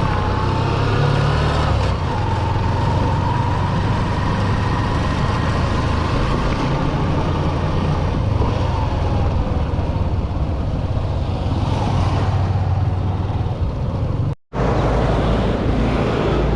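Motorcycle riding along the road: steady engine drone mixed with wind and road noise. The sound cuts out completely for a moment near the end, then resumes.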